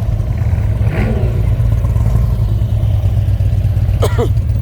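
Steady low rumble of car engines idling, with two short voice calls, one about a second in and one near the end.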